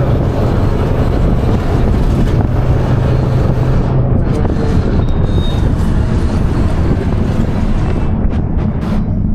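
A vehicle running steadily, with wind rushing over the microphone; a steady low hum fades out about four seconds in.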